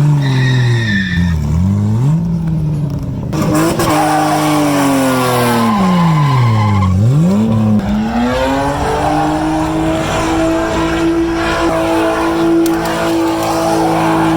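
Car engine revving hard. Its pitch sweeps down and back up twice in the first eight seconds, then holds high and steady.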